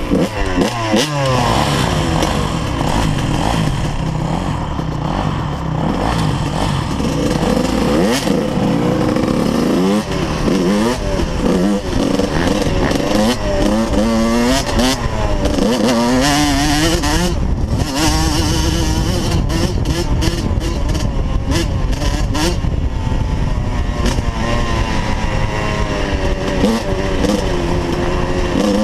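Motocross dirt bike engine running hard, its pitch climbing and dropping again and again as the rider revs up and shifts through the gears.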